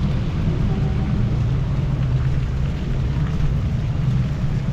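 Motorcycle engine running steadily, a low drone under an even hiss of rain and wind on the microphone.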